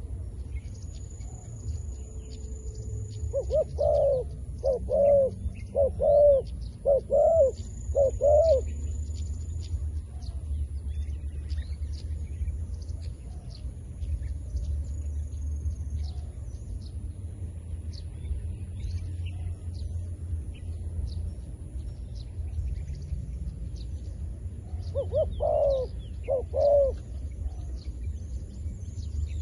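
Zebra dove cooing: a run of five rolling coos about a second apart, then a pause and two more coos near the end. Faint high chirps sound throughout.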